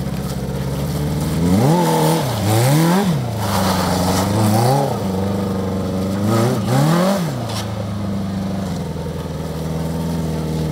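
Single-cylinder-sounding motorcycle engine of a homemade trike with wide ATV rear tyres, ridden in donuts: it runs steadily, then the revs climb and drop sharply about four times in the middle before settling back to a steady run.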